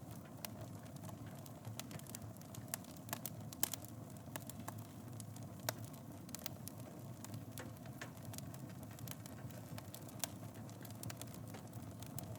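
Wood fire burning in a fireplace: a steady low rumble of flames with irregular sharp crackles and pops, the strongest a few seconds in.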